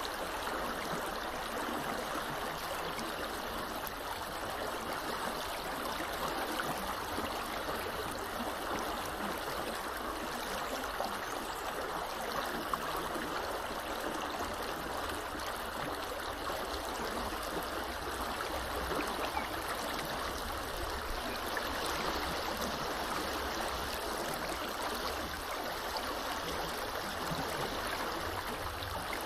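Small river flowing steadily, an even, continuous rush of water.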